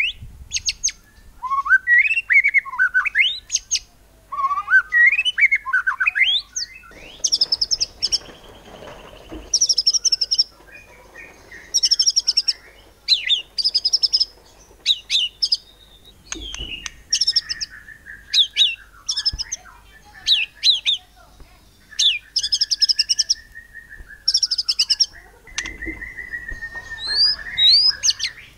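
White-rumped shama singing a loud, varied song: quick runs of repeated high notes alternating with rising and falling whistled slides and a few long held whistles, including the rapid-fire 'nembak cungkok' phrases it is kept for.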